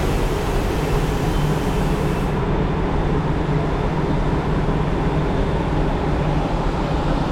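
Steady low rumble of a vehicle engine with road noise, even throughout.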